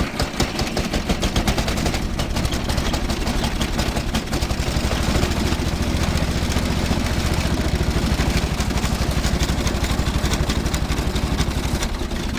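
MTD SN 150 A ride-on mower's engine running with a fast, even firing beat. Near the end it starts to drop away as it begins to die, starved of fuel with the petrol tap turned off.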